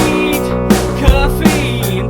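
Rock song with a sung vocal line over band accompaniment, drums hitting about twice a second.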